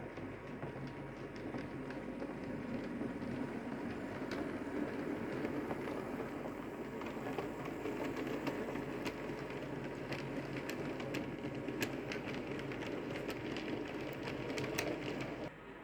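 Model train running along its track, a C Class locomotive hauling goods wagons: a steady rumble of wheels and motor with irregular sharp clicks as the wheels pass over rail joints. The sound drops suddenly near the end.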